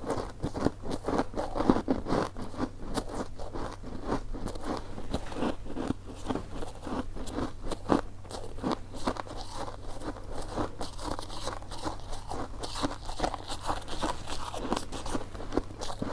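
Close-miked eating sounds of someone chewing coconut sticky rice cake: a continuous stream of short, sticky mouth clicks and smacks.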